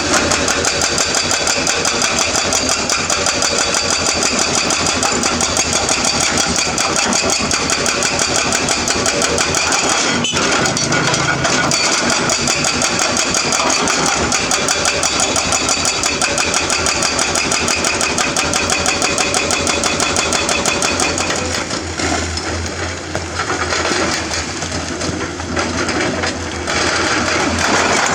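Excavator's diesel engine running steadily with a fast, even firing beat. It eases off and wavers slightly about three-quarters of the way through, then picks up again.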